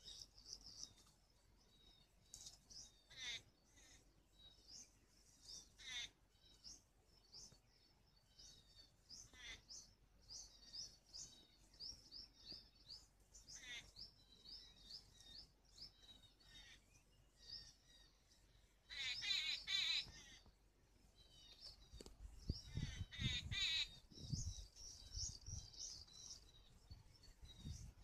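Small birds chirping in quick, high notes over and over. There is a louder, buzzier run of chirps about nineteen seconds in and another about twenty-three seconds in, with some low rumbling near the end.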